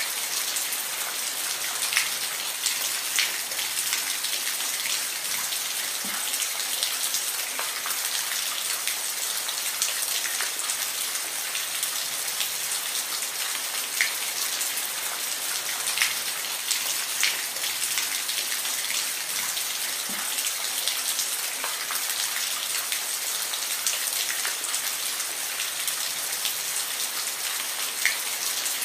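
Steady rain falling, a constant high hiss with individual drops clicking sharply against a surface every second or two.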